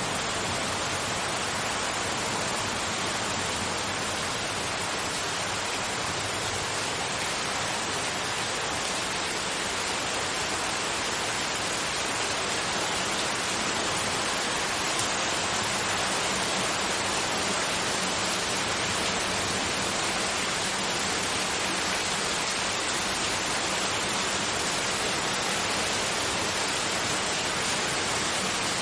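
Steady, unchanging white noise, an even hiss with most of its energy in the upper middle range.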